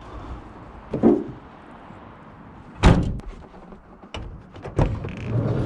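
A door slammed shut with one loud bang just before three seconds in, with a softer thump before it and a couple of lighter knocks after.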